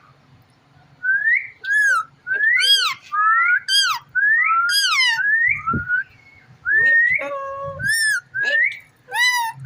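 Indian ringneck parrot whistling a quick series of about a dozen short notes, each rising and then falling in pitch, starting about a second in. Two brief low thumps come near the middle.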